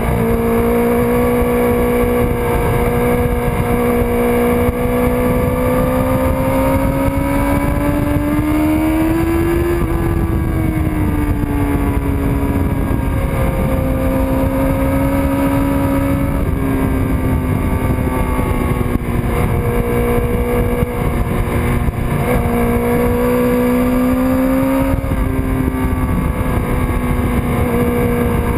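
1999 Kawasaki ZX-6R's inline-four engine running hard on track, heard from the bike itself, over a constant rush of wind noise. The engine note climbs to a peak about ten seconds in, then falls. It steps up and down a few more times as the rider works the throttle and gears.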